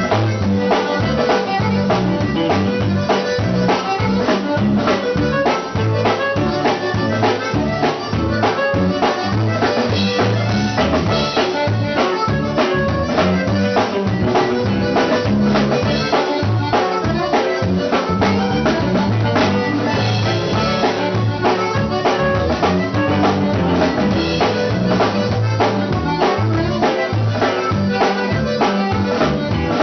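Conjunto band playing an instrumental stretch: button accordion over bass and a drum kit keeping a steady, driving beat.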